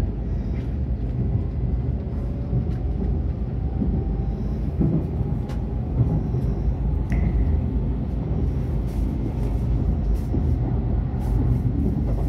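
Steady low rumble heard inside a Shinkansen bullet train carriage as the train pulls away from a station and gathers speed, with a few faint clicks.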